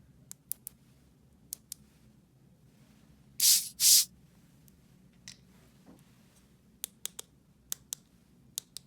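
Small plastic toy pieces being handled: scattered sharp clicks and taps, and two short, loud scraping rasps one after the other about three and a half seconds in.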